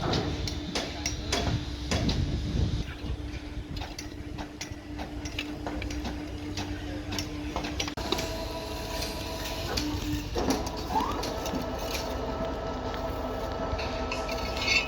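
A machine running with a steady whine and many clicks and knocks. The whine shifts to a higher tone about halfway through, then rises briefly twice.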